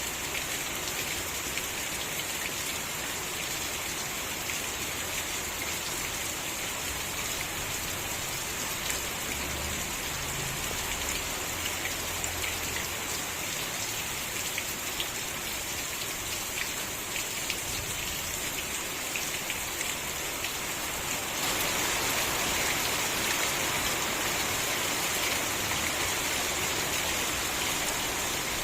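Steady rain falling, with many individual drops ticking through the hiss. It gets heavier and louder about three-quarters of the way through.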